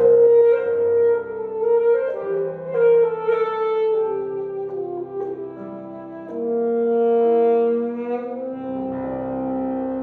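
Alto saxophone playing a slow, lyrical melody of long held notes that mostly step downward, over piano accompaniment.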